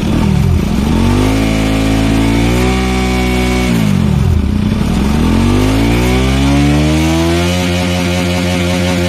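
Bajaj Pulsar RS200's single-cylinder engine revved through an aftermarket Akrapovic slip-on silencer fitted onto the stock exhaust. The revs dip, rise and hold, drop again about four seconds in, then climb and hold steady for the last second or so.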